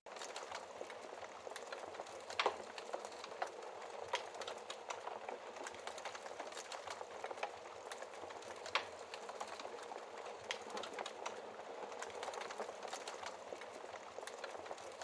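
Wood fire burning in a fireplace: a steady hiss with constant small crackles and a few louder pops, about two and a half seconds in and again near nine seconds.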